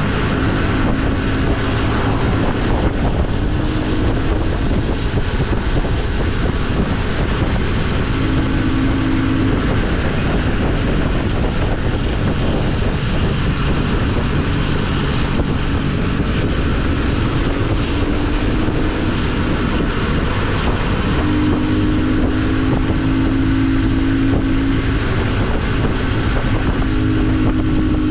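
Motorcycle engine running while the bike is ridden along, its note steady with a brighter hum swelling and fading several times, under heavy wind rush on the action-camera microphone.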